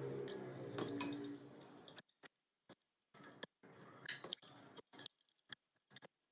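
Background music with held notes cuts off about two seconds in. It is followed by a string of short clicks and clinks, like small metal parts and tools being handled, with complete silence between them.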